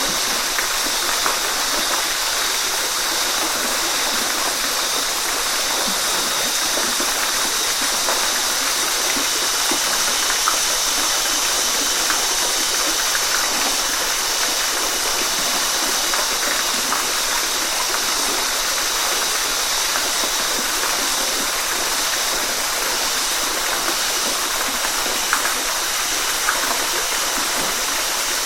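Waterfall: a steady rush of falling water, with small splashes and gurgles scattered through it.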